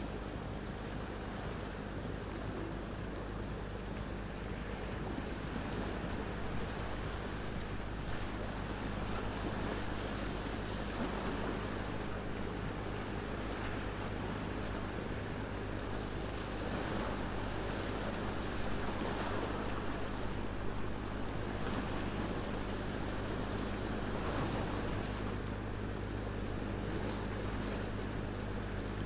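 Ocean waves washing on the shore in slow swells that rise and fall, with the faint crackle of a wood fire.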